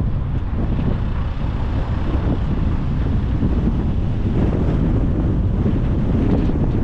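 Wind buffeting the microphone of a camera on a moving car, a steady low rumble with the car's road noise underneath.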